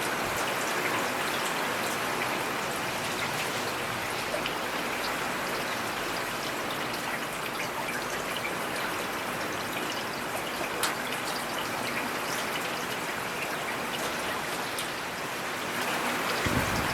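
Steady rain falling in a forest: a continuous hiss dotted with small drips and taps. A louder, deeper rush of water builds near the end.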